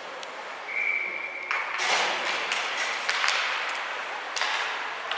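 Ice hockey game sounds: a single steady whistle blast of about a second near the start, from a referee's whistle, over a haze of skate and rink noise with several sharp clacks of sticks and puck.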